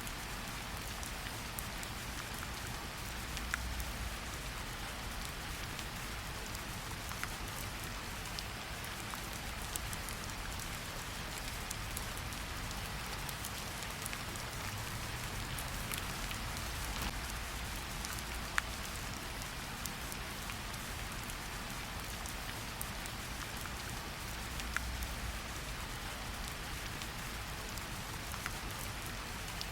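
Steady rain falling, an even hiss of rainfall with scattered sharper drop hits and a faint low rumble.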